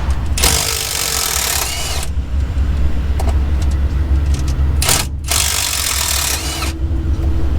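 Two bursts of compressed-air hiss, each about a second and a half long and starting and stopping sharply, from an air tool working on the bolts of a truck's PTO adapter plate, over a steady low hum.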